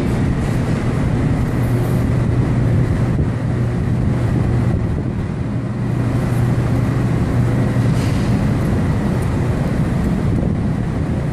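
Steady engine hum and road noise heard inside a car's cabin.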